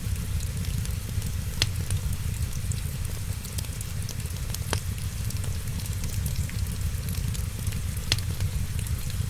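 Wood fire crackling in a fireplace, with fine continuous ticking over a steady low rumble, and three sharp, louder pops spread through.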